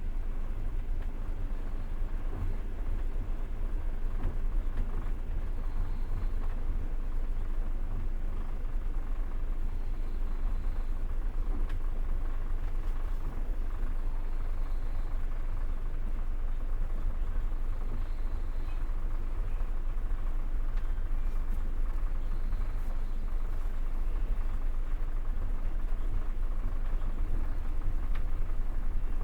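Passenger train carriage running along the track, heard from inside: a steady low rumble of wheels on rails.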